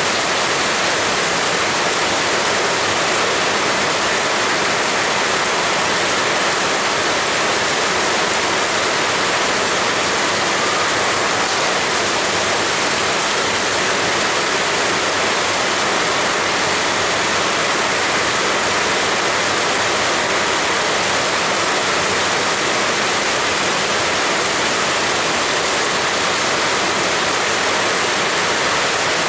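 Heavy rain pouring down, a dense, steady hiss without a break.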